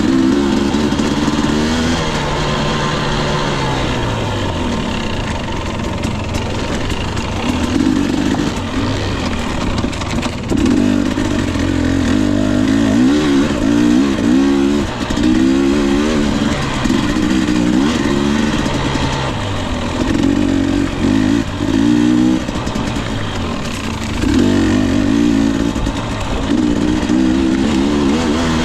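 Husqvarna TE 250i's two-stroke engine being ridden on dirt trail, revving up and dropping back again and again in short bursts of throttle every second or two.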